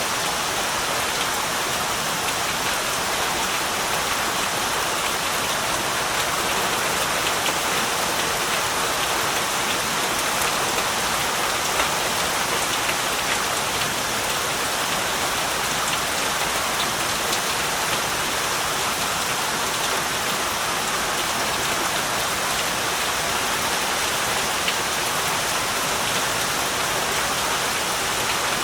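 Heavy rain falling steadily, a dense, even hiss of many drops striking surfaces, with fine individual drop ticks.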